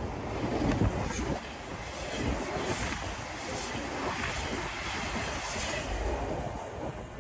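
Passenger train coaches rushing past at speed, their wheels running on the rails. The noise trails off near the end as the last coach goes by.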